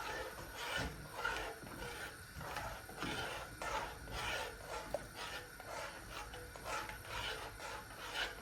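A spoon scraping around a pan in repeated rhythmic strokes as falooda milk with vermicelli is stirred on the boil.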